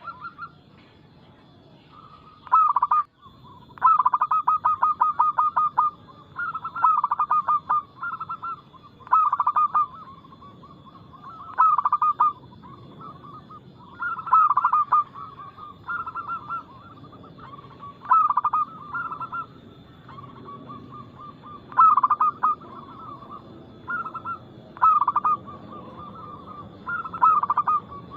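Zebra doves (perkutut) in full song: rapid, rolling coo phrases about every two seconds, some given as fast stuttering runs of a dozen or so short notes.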